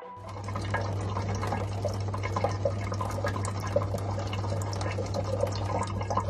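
Water splashing and trickling, with many small ticks, over a steady low hum.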